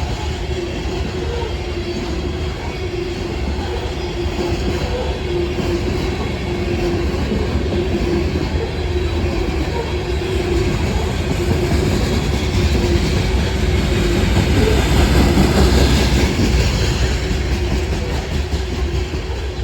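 Loaded coal train rolling past: steel wheels of the heavy hopper cars running on the rails in a steady rumble with a constant hum, swelling a little near the end.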